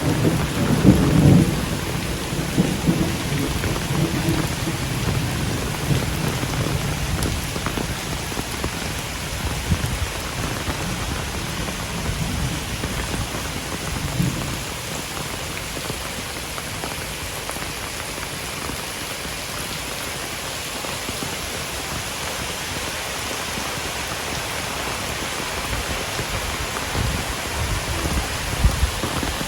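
Heavy rain pouring steadily. A low rumble is loudest about a second in and dies away around halfway through.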